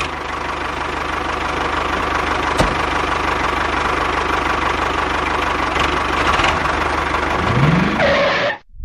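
Small engine of a homemade mini tractor running steadily, with a single sharp click about two and a half seconds in. The sound cuts off abruptly near the end.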